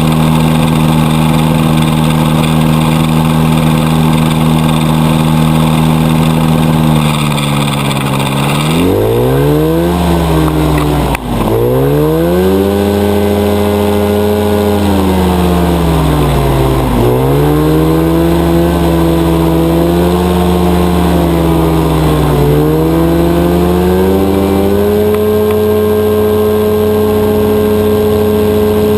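Rotax 582 two-stroke, two-cylinder engine of a powered parachute running steadily, then throttled down and up several times, its pitch dipping sharply twice, before settling at a steady, slightly higher speed near the end.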